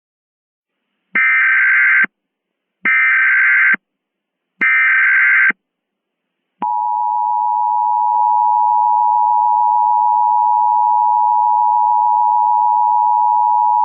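Emergency Alert System signal: three short bursts of buzzing SAME header data, then the harsh two-tone EAS attention signal, held steady. It marks the start of an emergency alert, a Civil Danger Warning.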